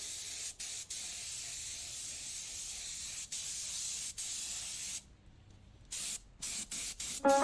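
Steady hiss of compressed air from an air tool used in bumper refinishing, such as a paint spray gun. It cuts off abruptly several times and drops to near silence for about a second near the end.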